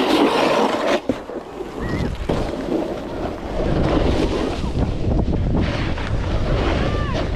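Snowboard sliding over snow with a steady hiss, with wind buffeting the microphone; the low wind rumble grows heavier about two seconds in.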